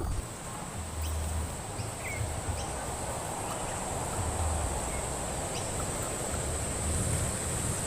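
Outdoor forest ambience: insects trill steadily at a high pitch, with a few faint short chirps over a low rumble.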